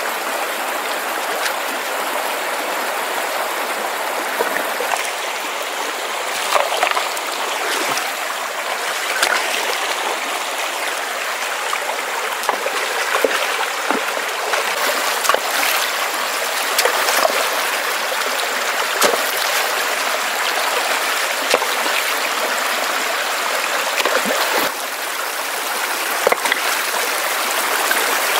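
Mountain stream rushing over rocks in a steady, fairly loud flow, with a few brief sharp splashes or knocks scattered through it.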